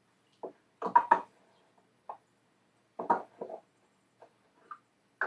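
A series of short knocks and clunks from hard parts being handled and set down, the loudest pair about a second in and another cluster about three seconds in.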